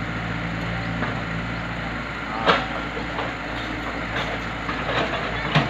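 An engine running steadily at a worksite, with a few sharp knocks and cracks from the work, the loudest about two and a half seconds in and again near the end.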